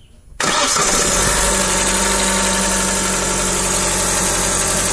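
Chevrolet Onix 1.0 engine comes in suddenly about half a second in, then runs steadily at idle.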